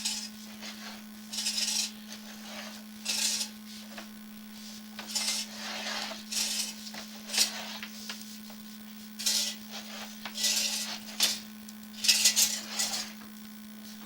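Sewer inspection camera push rod being fed into the line in short pushes, scraping and rattling in a burst every second or so, over a steady electrical hum.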